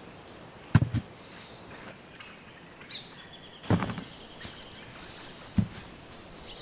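Small birds singing short, fast trills, over a steady outdoor hiss. Three dull thumps stand out: about a second in, near the middle and near the end.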